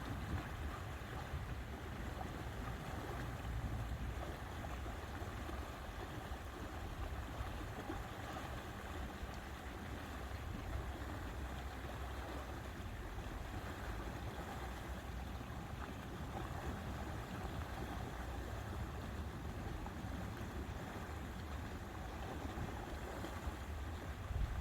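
Lakeside ambience: a steady low wind rumble over a soft, even wash of water, with no distinct events.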